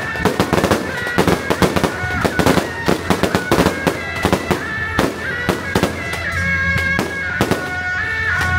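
Strings of firecrackers crackling rapidly, densest in the first few seconds and thinning out after about five seconds, while a melody of held, stepping notes plays over them.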